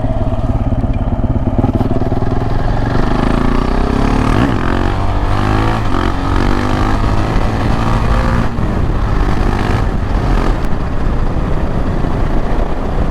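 KTM 690 Duke R's single-cylinder engine running under way, its note rising and falling a little around the middle.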